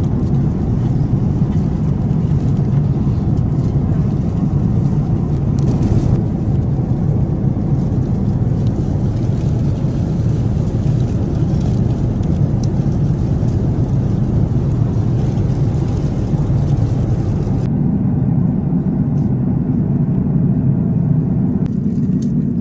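Steady low rumble of an airliner's passenger cabin, the continuous engine and air noise of a jet. Its higher hiss drops away abruptly about three-quarters of the way through.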